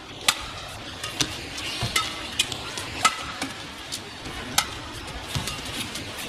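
Badminton rally: rackets striking the shuttlecock in sharp cracks about once a second, over the steady murmur of an arena crowd.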